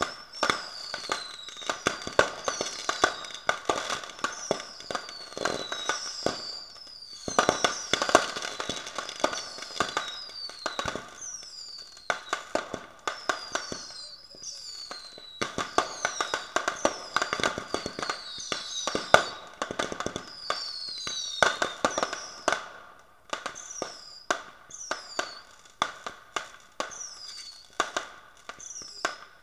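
Fireworks going off in quick succession: dense popping and crackling with many short, high whistles that fall in pitch, several a second, over a steady hiss.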